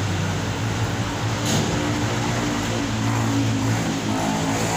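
A steady mechanical hum, like an engine or motor running, with a brief hiss about a second and a half in.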